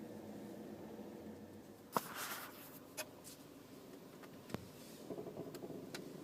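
2012 Chevy Equinox creaking while turning, heard from inside the cabin over a steady low hum: a few sharp creaks and clicks, the loudest about two seconds in, and a rougher run of creaking near the end. It sounds like walking on an old wooden floorboard, a new and abnormal noise.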